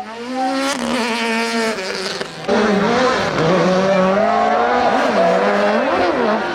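Rally car engine at full attack on a stage. It holds a steady note, then gets much louder about two and a half seconds in, its pitch swooping up and down with throttle lifts and gear changes.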